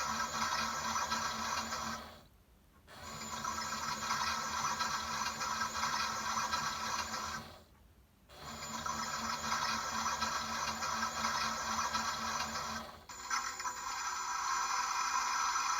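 Toy Bosch washing machine running a wash programme: a steady washing and drum sound that stops briefly twice and changes in tone about 13 seconds in.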